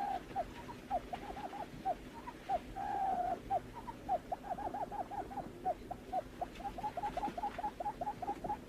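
Barred buttonquail calls used as a lure: a rapid run of short, low hooting notes, each dipping in pitch, several a second, with a longer warbling note about three seconds in. A faint steady hum runs underneath.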